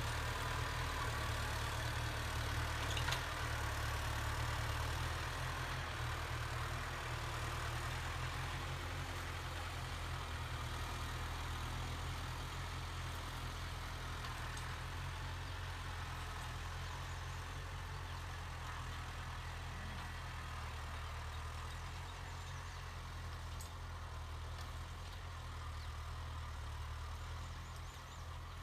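Kubota MU5702 tractor's diesel engine running steadily.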